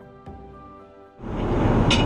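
Soft background music, then, just over a second in, a loud steady rumbling roar rises quickly and takes over, with a couple of sharp rattles: the noise of the Boeing 787-9 airliner.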